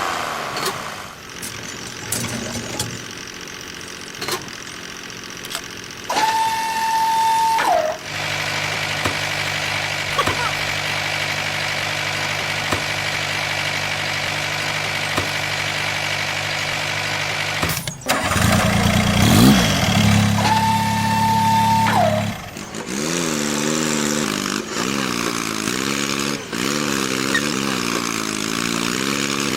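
Miniature tractor engine running: a steady engine note with a high whine, broken twice by a long beep, then a wavering engine note near the end.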